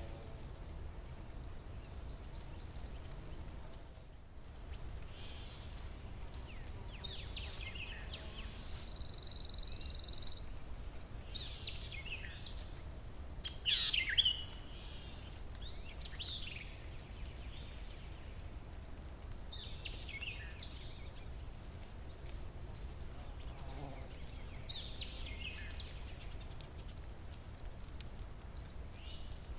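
Wild birds calling in a forest: short, sweeping, high phrases every few seconds, the loudest about halfway through, over a low steady background rumble and a thin, steady high hum.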